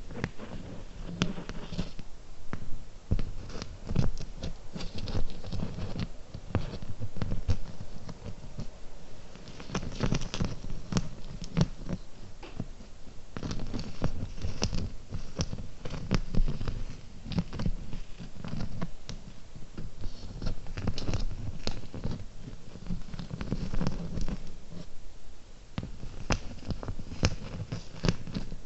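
Fingernails tapping and touching small objects close to the microphone: a dense run of quick, light taps and clicks, with small scratching sounds.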